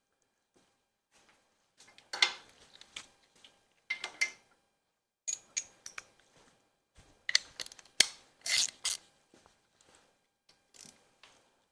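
Hand tools working on a Ford 351 Windsor V8 during teardown: scattered metallic clinks and knocks, with short bursts of ratchet-wrench clicking as fasteners come off. The loudest stretch falls about two thirds of the way in, including one sharp knock.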